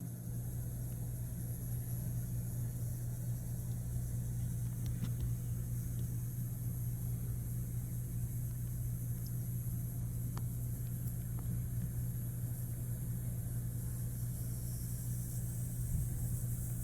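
Steady low mechanical hum, like a motor or engine running, with a faint high hiss and a few faint clicks.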